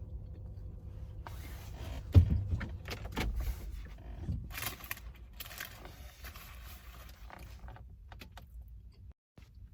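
Close-miked eating of a chicken McGriddle: chewing with irregular clicks and rustling handling noises, and a loud thump about two seconds in.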